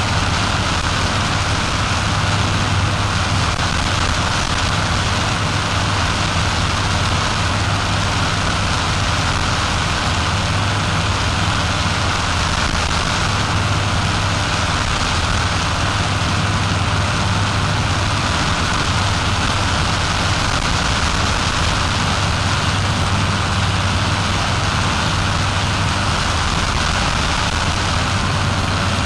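Paramotor engine and propeller running steadily in flight, an unchanging loud drone with a constant hiss over it.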